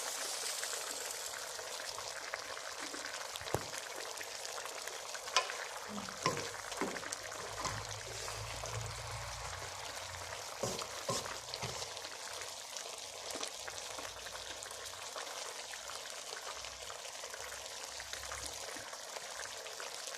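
A fish dish cooking uncovered in a pan, sizzling with a steady hiss and scattered small pops and clicks.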